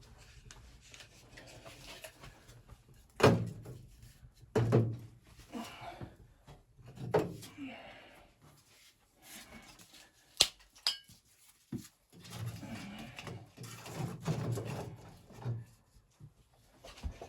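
Knocks, thunks and rustling of objects being handled in a small room, with the heaviest thumps about three and five seconds in and a sharp click about ten seconds in.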